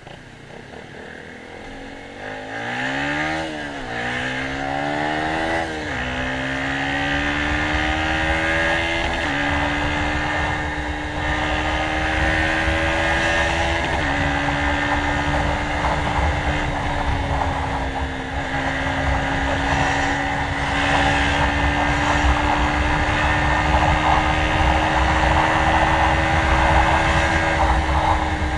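Yamaha motorcycle with a slip-on Kalkal exhaust pipe accelerating through the gears toward top speed. The engine note climbs in each gear and drops at each upshift, about five shifts, the gears growing longer as it goes. A steady rush of wind noise runs underneath.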